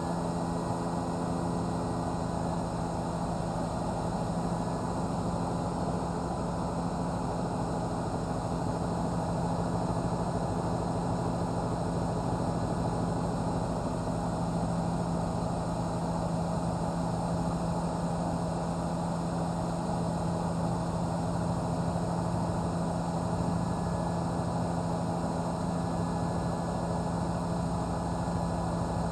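Steady drone of a news helicopter's engine and rotors, heard from on board, with several constant hum tones and no change in level.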